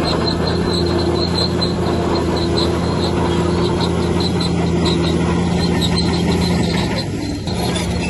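Bulldozer's diesel engine running steadily under load, with a string of high-pitched squeaks from its steel crawler tracks, several a second. The engine note dips briefly near the end.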